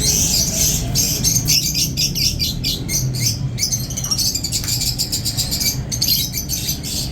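Many caged birds chirping and squawking at once, a dense overlapping chatter of short, high calls, over a low background rumble.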